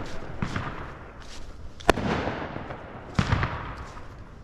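Fireworks going off: three sharp bangs, about half a second in, just before two seconds (the loudest) and just after three seconds, each followed by a rumbling echo and crackle.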